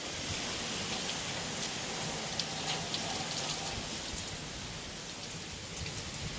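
Steady storm rain hissing down on trees and a shingled roof, with scattered sharp drip ticks close by. It is the heavy rain of a passing hurricane.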